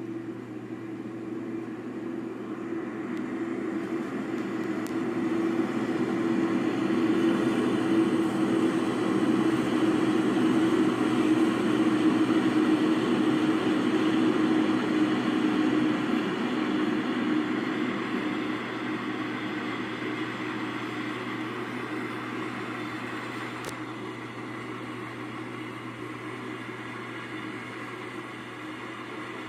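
BNSF freight train hauled by a GE ES44C4 diesel-electric locomotive passing. It grows steadily louder to a peak about halfway through, then fades gradually, with a steady low hum under the rumble throughout.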